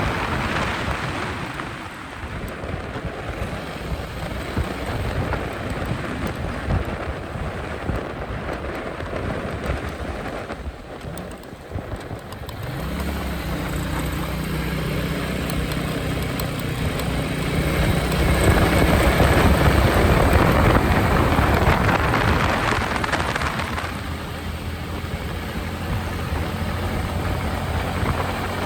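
Royal Enfield Meteor 350's single-cylinder engine and exhaust on the move at highway speed, with wind rushing over the microphone. For the first dozen seconds the engine sits low under the wind noise. Then its note rises as the bike accelerates, and the wind grows loudest a little past the middle before easing near the end.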